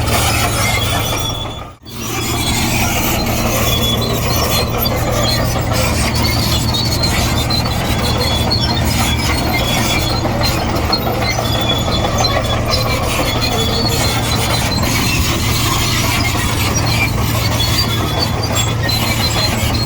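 Komatsu D58E crawler bulldozer working: its diesel engine running steadily under load while the steel tracks squeal and clank as it pushes soil. The sound drops out briefly about two seconds in.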